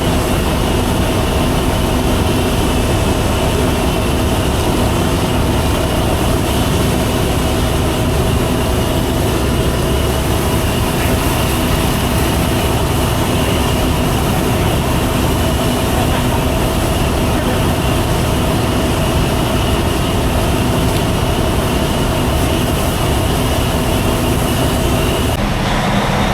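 Steady, loud drone of a semi truck's diesel engine, with a constant hum and rumble that does not change.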